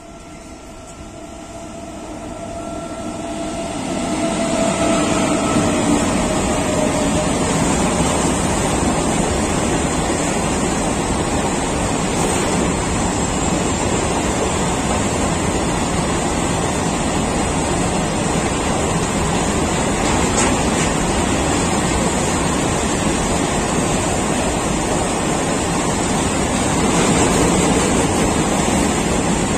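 A WAG-9HC electric freight locomotive comes closer, growing louder over the first four seconds, then a long train of empty open-top freight wagons rolls past with a steady rush and rumble of wheels on rails.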